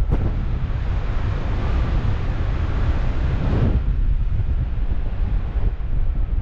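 Wind buffeting the camera microphone during paraglider flight: a heavy, steady low rumble with a brighter rush of air that swells from about half a second in and drops away just before four seconds.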